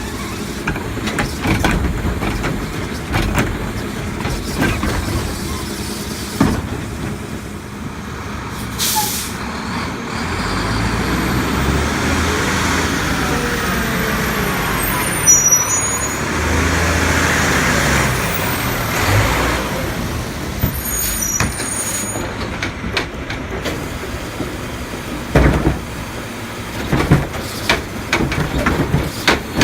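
Diesel engine of a Mack LEU garbage truck running, with a short burst of air hiss from its air system about nine seconds in. The engine note rises and falls between about twelve and twenty seconds in, and a few knocks and clanks come near the end.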